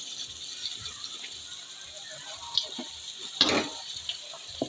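Sliced raw potatoes and chopped onion sizzling steadily in hot oil in a kadhai, with a few light knocks, the loudest about three and a half seconds in.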